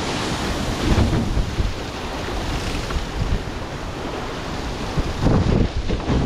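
Wind buffeting the onboard microphone over the rush of water past the hulls of an Extreme 40 racing catamaran under sail, with stronger gusts about a second in and again about five seconds in.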